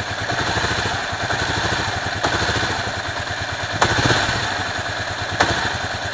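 Kawasaki KLR650's single-cylinder engine idling steadily, with three sharp clicks about a second and a half apart: the 'funny noise' the owner is pointing out.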